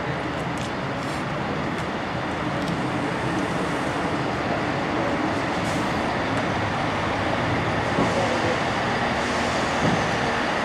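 Steady running noise of a moving train heard from on board, with a few faint clicks.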